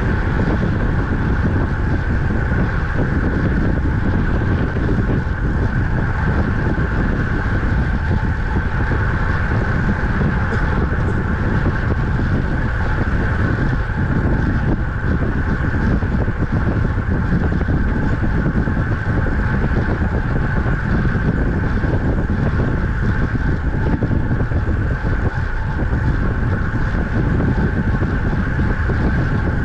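Steady wind rushing over the microphone of a camera on a road bike moving at speed, mixed with the hum of the tyres on the road.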